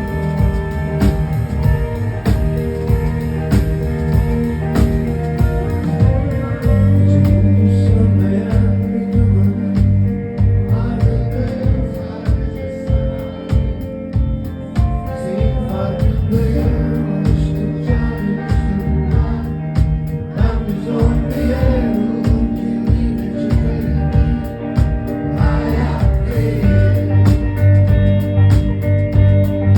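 Live band music played at a concert, with a steady drum beat under held chords.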